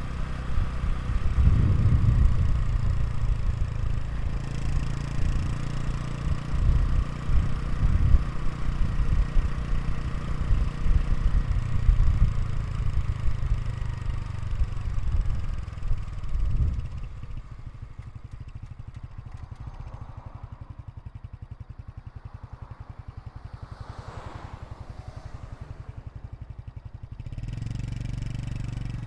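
Honda Super Cub 110 Pro's 109 cc air-cooled single-cylinder four-stroke engine running at the exhaust, revved up and down repeatedly for about the first 17 seconds. It then settles to a steady idle with an even putter, and the idle lifts slightly near the end.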